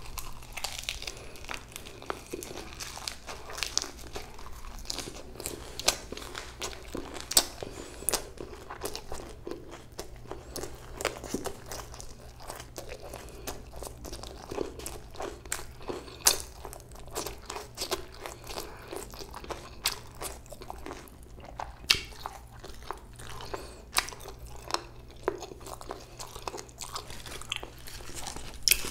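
A person chewing a bossam wrap of boiled pork, close to the microphone: crunchy bites and wet mouth clicks at an irregular pace, over a faint steady low hum.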